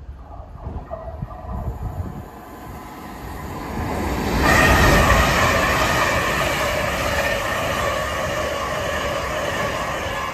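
LNER Azuma train passing through the station. The rumble builds over the first few seconds and turns loud about four and a half seconds in as the carriages go by: a rush of wheel and air noise with steady whining tones over it.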